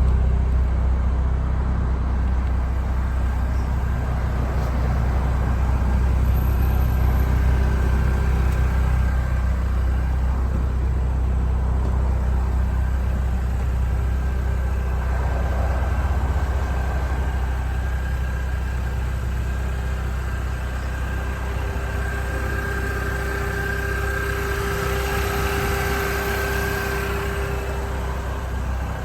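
2006 Mini Cooper S's supercharged four-cylinder engine running steadily, a constant low rumble with a faint high whine over it.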